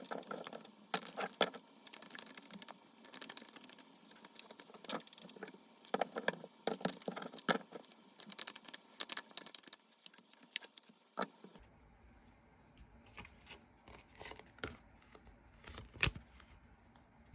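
Tarot cards being shuffled and handled: quick papery clicks and rustles, dense for the first eleven seconds or so, then sparser over a low steady hum.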